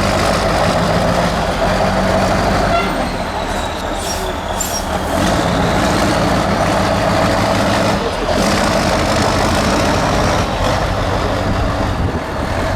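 Heavy off-road trial truck's diesel engine running hard, its note rising and falling several times as the driver works the throttle.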